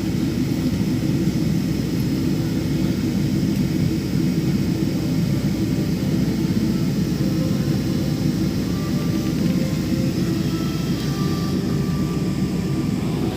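Steady jet airliner cabin noise as the plane taxis after landing: a low, even rumble from the engines at idle and the rolling airframe.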